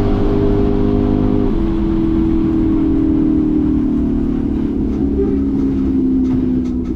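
Hemi V8 engine of a drag-race Plymouth Belvedere running at high revs with a steady note. The note drops sharply about a second and a half in, then slowly falls with a further step down near the end.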